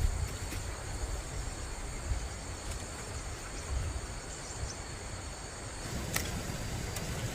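Outdoor ambience: a steady high insect drone over a low rumble, the insect tones stopping about six seconds in, followed by a single light click.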